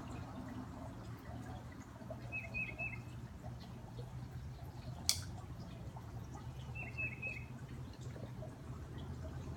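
Garden fountain water running steadily under two short bird calls, each a quick run of about three notes, some four seconds apart. A single sharp click about halfway through.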